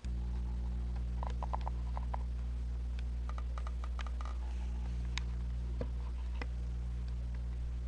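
Low steady electrical hum that starts abruptly, with scattered light clicks and taps of small parts being handled.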